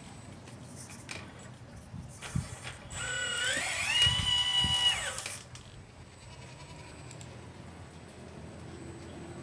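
Electric motor of a 1/12-scale RC Liebherr 954 excavator whining: it rises in pitch about three seconds in, holds steady for about two seconds, then drops away. A few light clicks come before it.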